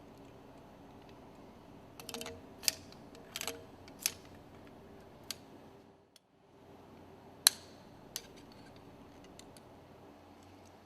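Scattered sharp clicks and clinks of hand tools and metal engine parts being handled, a cluster of them about two to four seconds in and single ones later, the loudest about seven and a half seconds in. The sound cuts out briefly about six seconds in.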